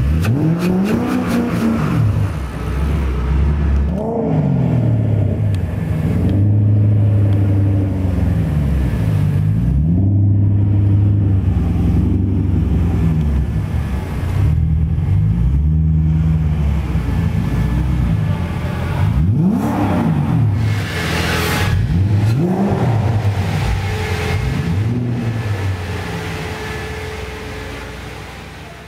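BMW 4.6-litre V8 from an X5 4.6is, swapped into an E30 M3 Touring, revved again and again; each rev climbs and falls back. The sound fades out near the end.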